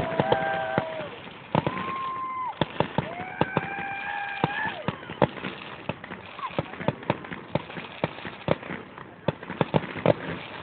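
Aerial fireworks crackling, many sharp irregular pops and bangs in quick succession, with a few held steady tones of about a second each over them in the first half.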